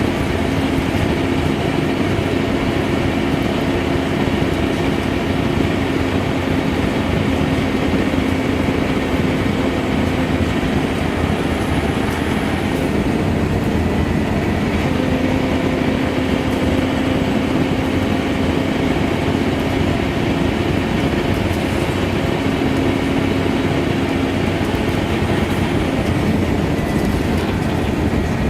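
Scania K230UB single-decker bus under way, heard on board: its five-cylinder diesel engine runs with a steady drone over road and body noise, and the engine note changes about halfway through.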